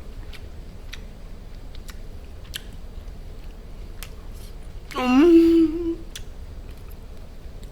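Faint mouth clicks of someone chewing food, and about five seconds in a short closed-mouth 'mm' hum that rises in pitch and then holds for about a second.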